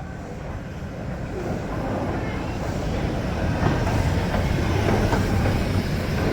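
A train moving along the track, its running noise growing steadily louder, with wheels clicking over the rail joints.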